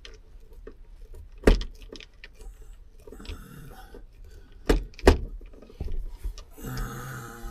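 Sharp clicks and knocks of a screwdriver and loose trim parts being handled: three loud clicks, with a short rattling scrape near the end.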